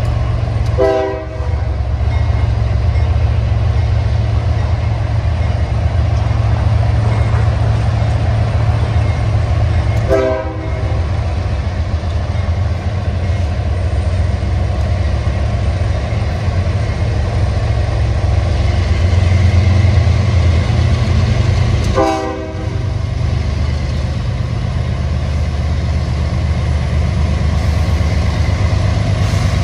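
Freight train's diesel locomotives, led by a Canadian Pacific SD70ACU, approach with a steady low engine rumble. The horn sounds three short times, about ten seconds apart.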